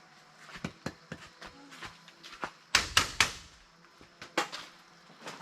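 Hard objects knocking and clattering in scattered single knocks, with a quick run of three loud knocks about three seconds in.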